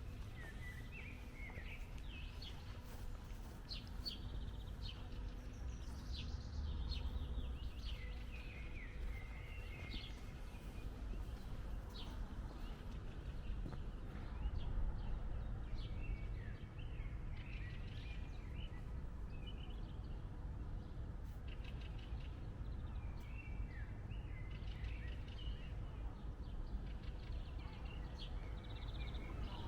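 Small songbirds chirping and twittering on and off, over a steady low rumble.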